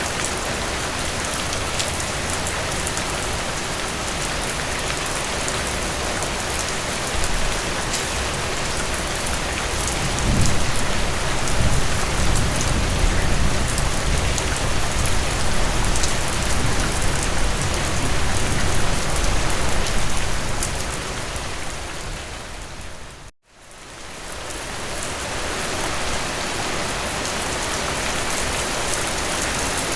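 Steady rain falling, with fine pattering of drops on surfaces. About a third of the way in, a low rumble of thunder rolls for roughly ten seconds, then dies away. Past the two-thirds mark the sound briefly fades out to silence and fades back in, as at a loop splice.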